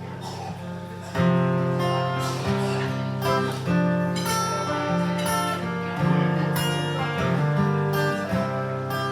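Acoustic guitar strumming chords as the introduction to a song, a new strum or chord change roughly every half second to second.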